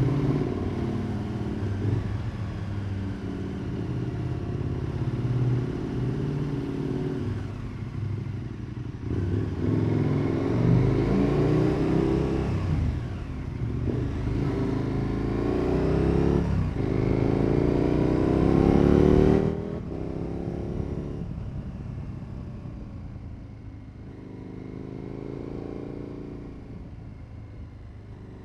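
A KTM 1290 Super Adventure S V-twin with a Wings aftermarket exhaust accelerates hard through the gears: the engine note climbs and drops back at each shift, three times. About two-thirds of the way in the throttle shuts suddenly, and the bike runs on at a quieter, lower note, with one brief blip of throttle near the end.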